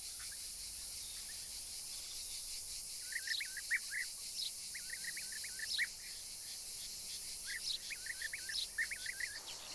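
Natural ambience: a steady high-pitched insect drone, with a small bird chirping in quick runs of short notes from about three seconds in.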